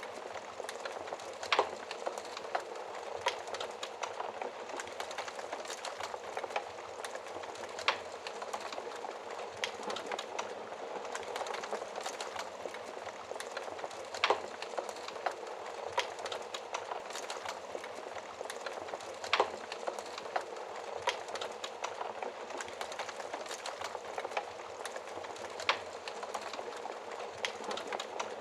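Wood fire crackling in a fireplace: a steady hiss with frequent small sharp pops and, every few seconds, a louder crack.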